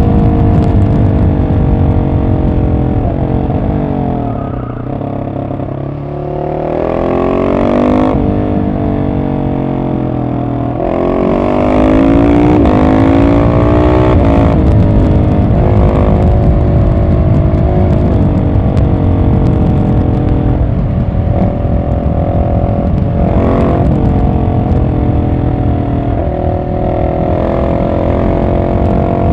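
Husqvarna 701 supermoto's single-cylinder engine through a decatted Arrow exhaust, running under the rider. The revs fall away over the first few seconds, climb twice with a drop between, then hold fairly steady with a few brief dips.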